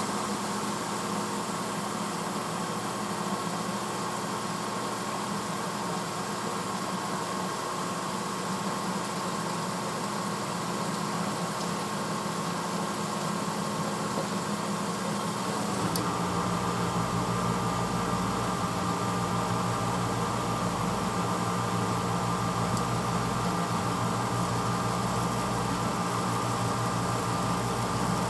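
1986 Hotpoint Potwasher dishwasher running mid-cycle: a steady motor hum under an even hiss. About sixteen seconds in, the sound changes to a slightly louder, deeper hum.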